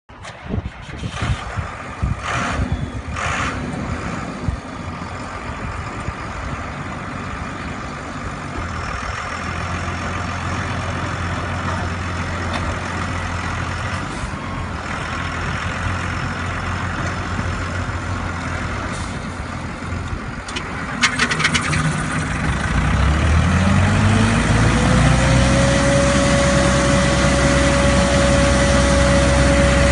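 Tymco 600 regenerative-air street sweeper truck running, with a few clicks and knocks early on. About twenty-two seconds in, a second machine comes up to speed with a rising whine that levels off into a steady, louder hum: the sweeper's auxiliary engine spinning up its blower.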